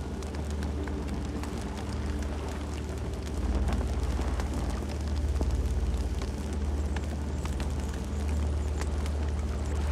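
Campfire burning: a steady low rumble of flames, with scattered sharp crackles and pops from the burning wood.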